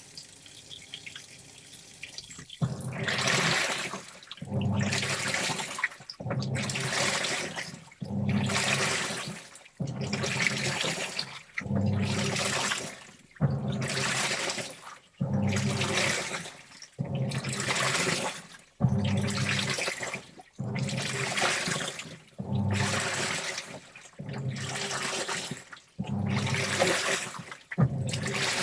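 Washing machine in its wash cycle: water sloshing in regular surges as the drum turns, about one surge every one and a half to two seconds, each with a low motor hum beneath it. The surges start about two and a half seconds in, after a quieter stretch of light dripping.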